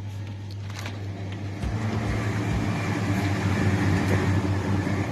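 A steady low mechanical hum that grows louder and fuller a little under two seconds in.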